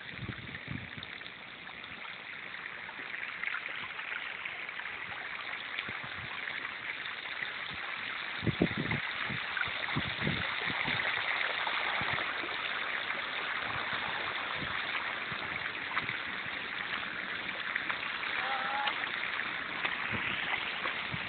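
Floodwater rushing and swishing, a steady hiss that slowly grows louder, with a few faint knocks about halfway through.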